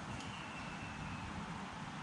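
Steady low outdoor background noise with a rumbling low end, and a faint thin high tone for about a second near the start.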